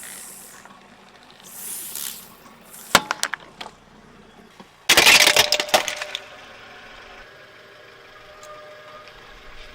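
Brittle objects cracking and breaking as a car tyre crushes them: a few sharp cracks, then about two seconds later a loud burst of breaking. A car engine runs faintly afterwards.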